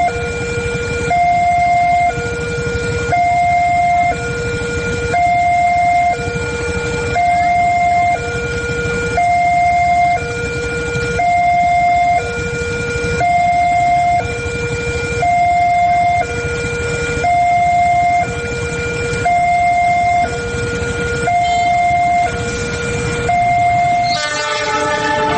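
Level-crossing warning alarm sounding, alternating two tones about once a second each, over a steady low rumble. About a second before the end the alarm stops and a horn sounds.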